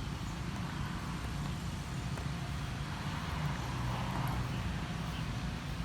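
Steady low rumble of a motor vehicle or nearby road traffic, a little louder around the middle.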